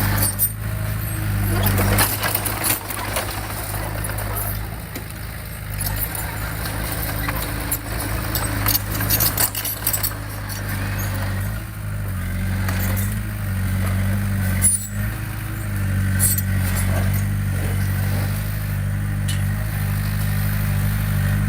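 Diesel engine of heavy earthmoving equipment running under load, its pitch shifting a few times, with scattered metallic clanks and knocks.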